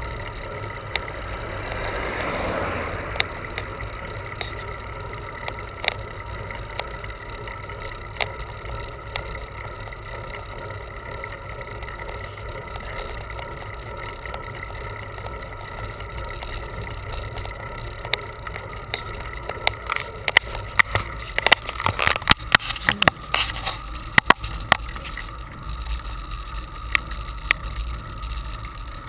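Bicycle ride noise: a steady low rumble of wind and tyres on the road, with scattered clicks and rattles. The rattling comes thick and fast between about twenty and twenty-five seconds in.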